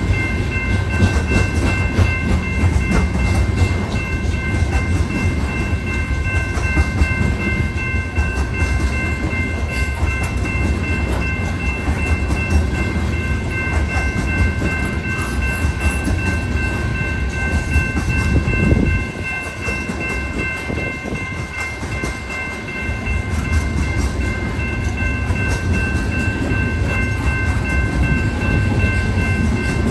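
A BNSF coal train's freight cars rolling past: a heavy rumble of steel wheels on rail with a steady high ringing tone over it. The rumble eases for a few seconds after about 19 seconds, then builds again.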